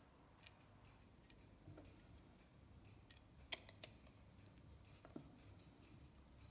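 Near silence: three faint clicks from small parts being handled, the clearest about halfway through, over a steady high-pitched tone.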